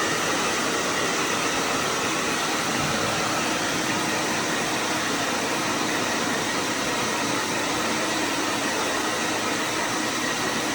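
Electric hair dryer blowing steadily at a constant speed.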